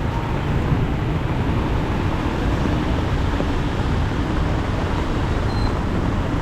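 Steady, loud rush of heavy rain mixed with road traffic on a flooded street.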